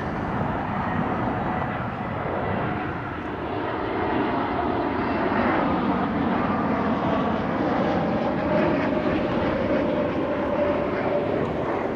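Airbus A320neo jet airliner passing close by with a steady jet engine rush. The sound swells to a peak about midway and eases off near the end, while a faint engine whine slides slightly lower as it goes by.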